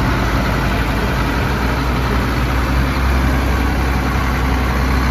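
Farm tractor engine idling steadily close by, a continuous low hum.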